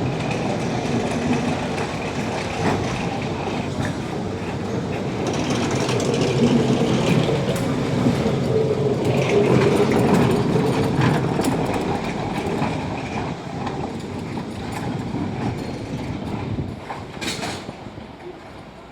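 Lisbon funicular car running on its rails: a steady rumble of wheels and running gear with a faint high squeal at times, louder around the middle. Near the end there is a sharp click, and then the rumble eases off.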